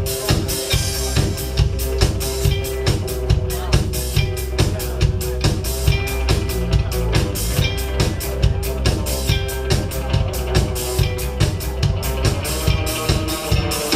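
Live band playing an instrumental passage: drum kit keeping a steady beat, about two strokes a second, under a held pitched note.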